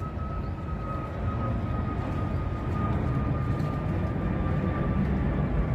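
Low rumble of a jet airliner passing overhead, growing slightly louder, with a faint high whine that slowly drops in pitch.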